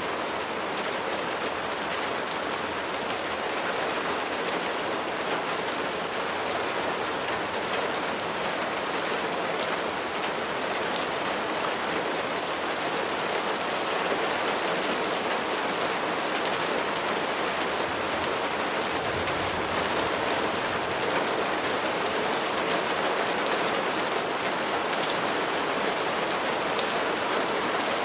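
Steady rain falling, with many small, sharp ticks of single drops hitting a surface. It grows slightly louder about halfway through.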